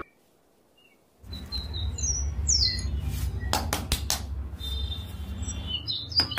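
Birds chirping and tweeting in short high calls over a steady low rumble. The sound starts about a second in, and a few sharp clicks come near the middle.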